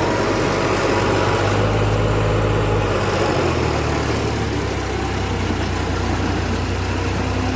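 Tractor engine running steadily, with a small shift in its low note about three and a half seconds in.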